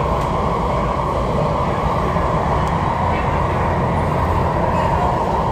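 MTR East Rail line R-Train electric multiple unit in motion: a steady rumble of wheels on rail and running gear, even throughout.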